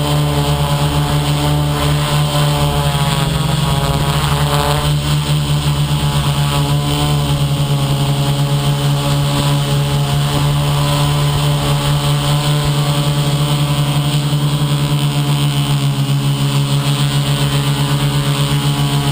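The motor and propellers of an FPV model aircraft running steadily, a loud continuous drone with small shifts in pitch.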